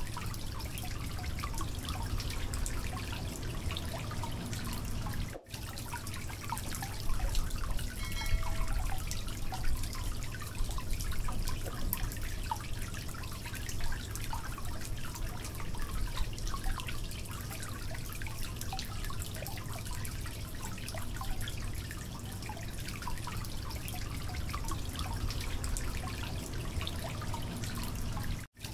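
Potatoes and cauliflower frying in oil in a steel karahi, a steady sizzle full of small crackles, with a wooden spatula stirring and scraping against the pan, louder for a few seconds after the start. The sound cuts out for an instant twice, about five seconds in and near the end.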